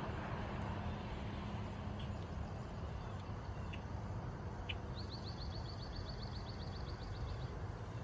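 Steady low outdoor background rumble, with a few short bird chirps and, about five seconds in, a songbird's trill of quick repeated high notes, about eight a second, lasting some two and a half seconds.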